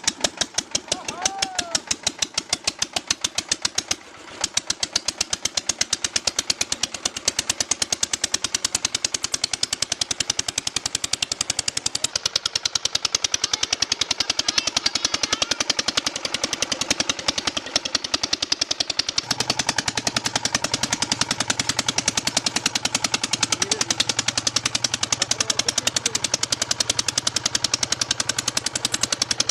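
Diesel engine fitted to a Ford 3600 tractor, running steadily with a fast, even train of firing knocks. It cuts out for a moment about four seconds in, and a low steady hum joins in about two-thirds of the way through.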